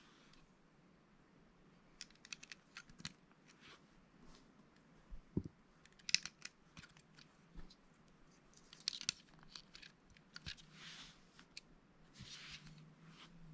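Plastic Lego pieces being handled and snapped together: scattered sharp clicks and taps, with a few short rustles in the second half.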